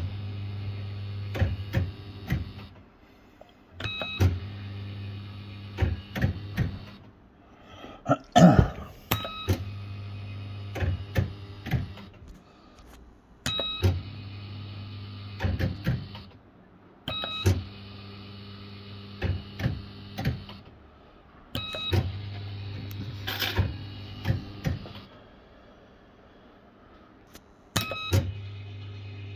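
Bell-Fruit FireCracker fruit machine playing spin after spin, about seven in all: each spin opens with a short electronic tone, the reels run with a steady hum for about three seconds, then stop one after another with sharp clicks.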